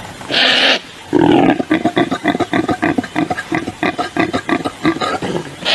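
A large animal's calls: a short harsh burst, then a long rapid run of grunts, and another harsh burst near the end.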